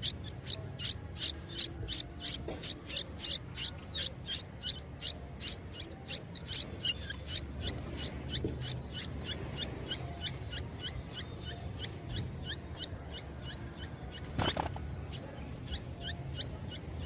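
Nestling birds giving rapid, high-pitched begging peeps, about four a second, with one sharp knock about three quarters of the way through.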